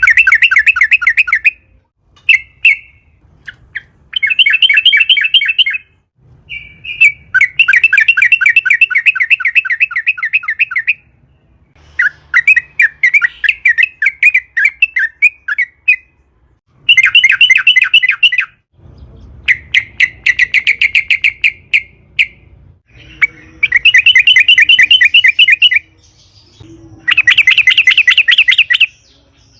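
Yellow-vented bulbul (trucukan) singing in long bouts of fast, evenly repeated chattering notes. Each run lasts one to four seconds and breaks off briefly before the next, about nine in all.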